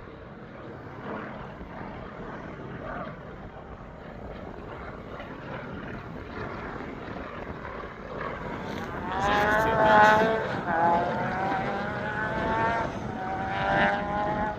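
Light propeller aircraft's engine droning, faint at first and growing louder about nine seconds in, its pitch drifting as the plane passes.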